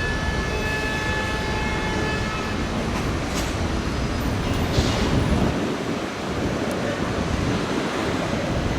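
Steady vehicle rumble and road noise, with a thin high whine that fades out over the first few seconds.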